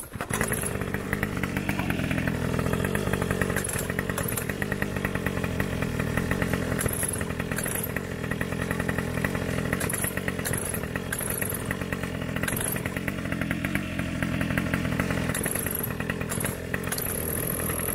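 Small 49cc two-stroke pocket bike engine idling steadily, its pitch wavering a little now and then.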